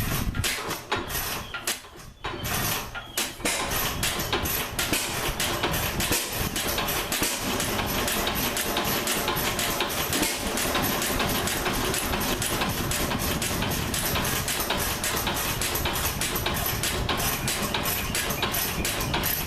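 Antique SAMSCO 5 HP throttle-governed stationary engine running. It fires unevenly with a couple of brief drops for the first three seconds or so, then settles into a steady, even beat. Because it is throttle-governed, it fires on every cycle rather than hitting and missing.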